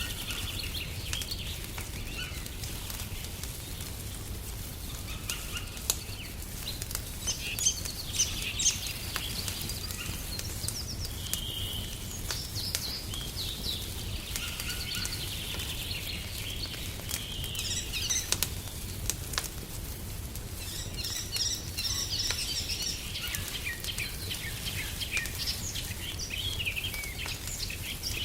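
Songbirds chirping and twittering throughout, with scattered sharp pops of a crackling wood fire over a steady low rumble.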